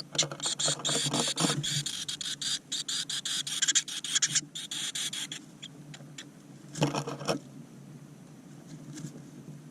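Blue tit nestlings begging: rapid, high-pitched chittering for about five seconds that then dies away, with one more short burst near the end.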